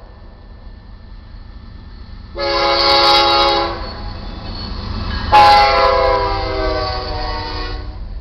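Horn of a GE C40-9W diesel freight locomotive sounding two blasts, a shorter one of about a second and a half and then a longer one of about two and a half seconds, the second slightly falling in pitch. A steady low rumble of the moving train runs underneath.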